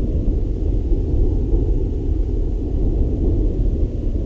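A steady, deep rumble with no clear pitch, like a thunder-style background sound bed.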